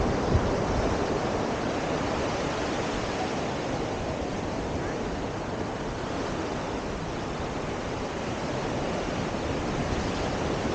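Ocean surf washing steadily onto a sandy beach, with a low, uneven wind rumble on the microphone.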